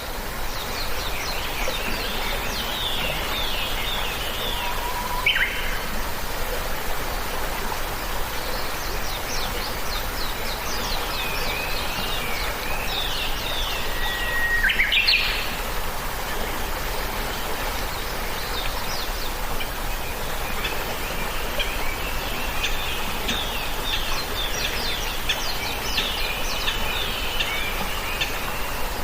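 Several small birds chirping and singing in quick, repeated notes over a steady background hiss of outdoor noise.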